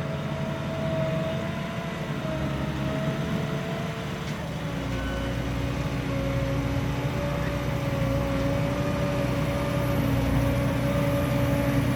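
Grimme Varitron 270 potato harvester running: an engine with steady whining machinery tones. About four and a half seconds in, the tones shift lower and the low rumble grows heavier, and the sound slowly gets louder.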